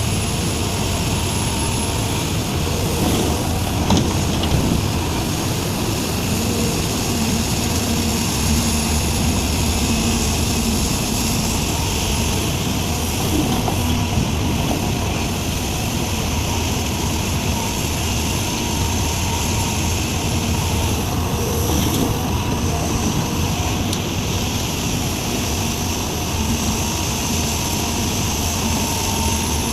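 Diesel engine of a Sumitomo SH350 hydraulic excavator running steadily under load as it digs and loads soil, with a few light knocks.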